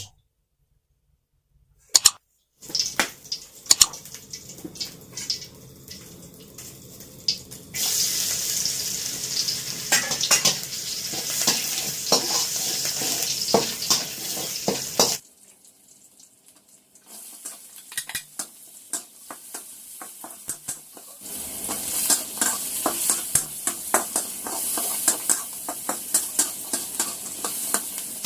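Food sizzling in a hot pan while being stirred, with a utensil clinking and scraping against the pan. After a couple of seconds of silence, light clinks lead into loud sizzling about eight seconds in; it cuts off suddenly about halfway, then returns louder about three quarters of the way through.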